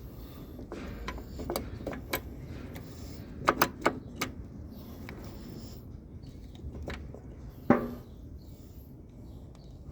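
Metal tools clinking and knocking against metal parts during hand work on a diesel engine's fuel pump. A quick run of sharp clinks comes about three and a half seconds in, and one louder ringing knock near the end.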